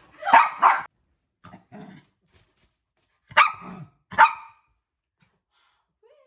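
Dog barking: two sharp loud barks, a couple of quieter ones, then two more sharp barks about three and a half seconds in.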